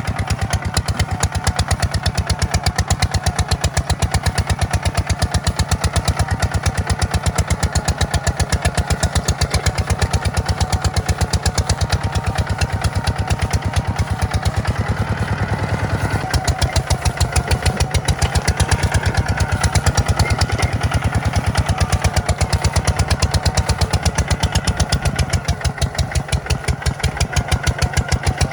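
Tractor diesel engine running steadily at close range, its firing pulses dense and even, with a slight shift in its note about halfway through.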